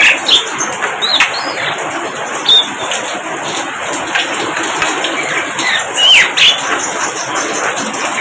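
Birds calling: scattered short chirps and quick downward-sliding whistles, a few each second at times, over a steady hiss.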